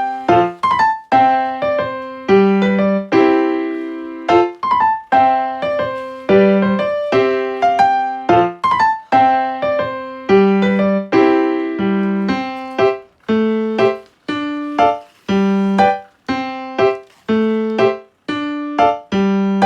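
Background music played on a piano or electric piano: a light tune of struck notes and chords at an even, unhurried pace.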